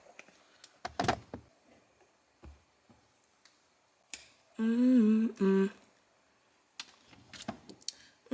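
A woman humming a short tune for about a second, a little after the middle, after a few light knocks and clicks of kitchen handling.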